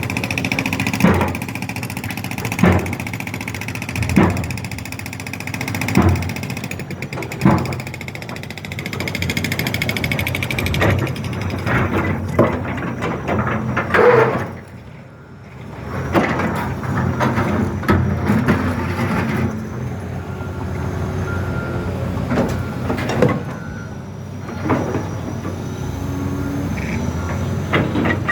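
Road construction machinery: a steady engine hum with sharp knocks about one every second and a half for the first several seconds, then irregular clanks. The sound drops briefly about halfway through.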